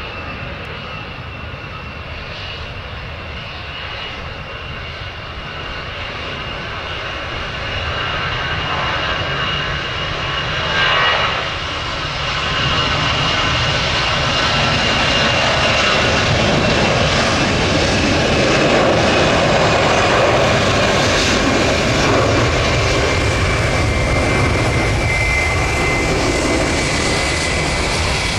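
Jet airliner engines at high power: a broad engine noise with a steady high-pitched whine. It grows louder through the first half, with a brief louder swell about eleven seconds in, then holds.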